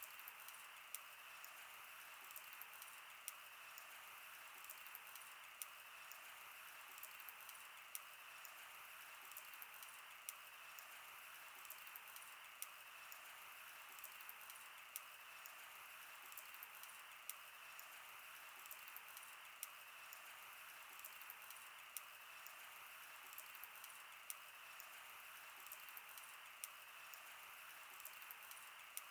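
Wood fire burning, with a steady soft hiss and frequent irregular sharp crackles and pops.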